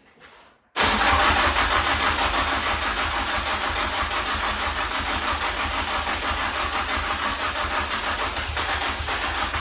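Toyota KE70 Corolla's freshly rebuilt engine starting abruptly about a second in and running steadily, with a fast, even pulse, on its first run after the rebuild.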